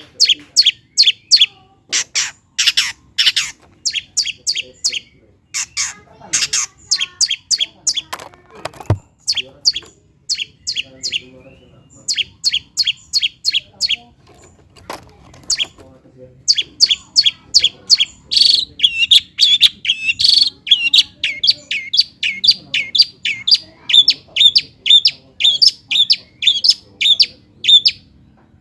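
Long-tailed shrike (cendet) singing loud runs of sharp, rapidly repeated high notes, broken by short pauses; the last run is the longest and fastest, of quick downward-slurred notes.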